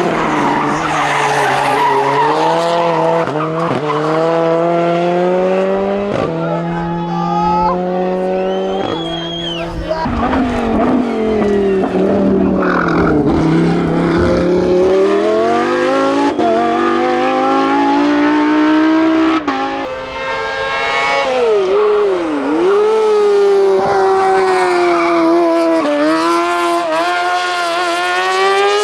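Racing car engines at full throttle on a hillclimb, the revs climbing and dropping sharply several times in quick succession as they shift up through the gears, then falling and rising again as they brake and accelerate through bends. Tyres squeal.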